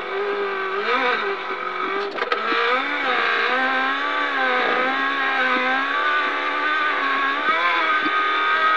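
Toyota Hilux rally car's engine heard from inside the cabin, its revs rising and falling continually as it is driven over rough, rutted desert track, with a few short knocks from the jolts.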